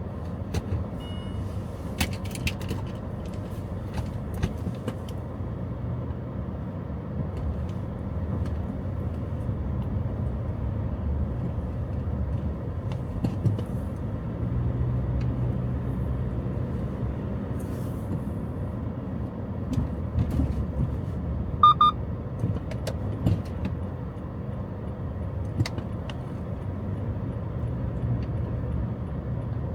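Steady low rumble of a motor vehicle, with scattered light clicks and a short electronic double beep about 22 seconds in.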